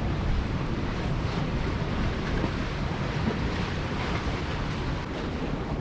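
Strong wind buffeting the microphone over choppy water, a steady rushing noise without a break.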